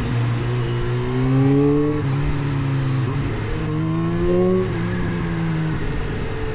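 Kawasaki Z H2's supercharged inline-four engine accelerating through the gears: its pitch rises and drops back at each upshift, three times, then holds steadier near the end.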